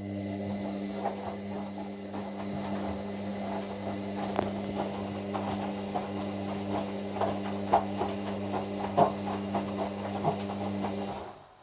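Hoover washer dryer's drum motor running a slow tumble to weigh the load, a steady hum and hiss with irregular light knocks from the laundry turning in the drum. The motor stops about 11 seconds in.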